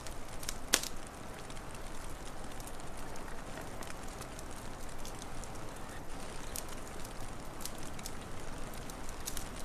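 Wood fire crackling with scattered sharp pops, one loud pop about a second in, over a steady hiss.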